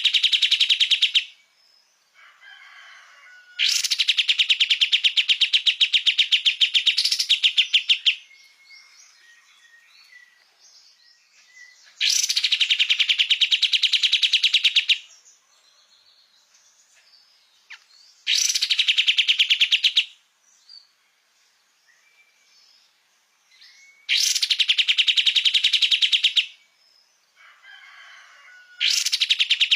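Kapas tembak songbird singing in full voice: bursts of very rapid, machine-like chattering notes, each burst about two to four seconds long and coming roughly every six seconds, with softer scattered chirps in between. The recording serves as mastering material for training caged songbirds.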